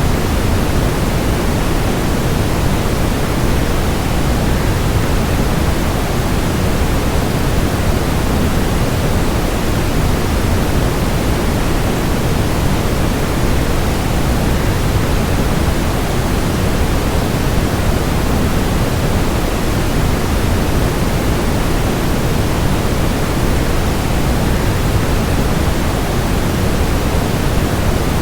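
Waterfall, a steady, unchanging rush of falling water, heaviest in the low end.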